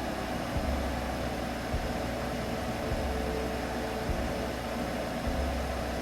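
Steady low drone with a hiss of white noise over it, an unbroken sleep-aid hum with no rise or fall.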